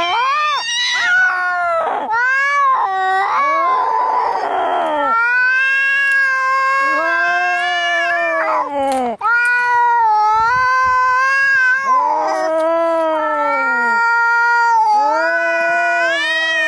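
Angry cats yowling in a fight: long, wavering howls one after another, with a harsh hiss about four seconds in.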